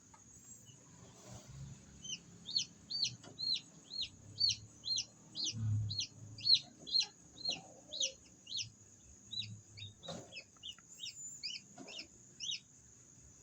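Newly hatched chicks peeping: a quick run of short, high, falling peeps, about two a second, starting about two seconds in and thinning out near the end.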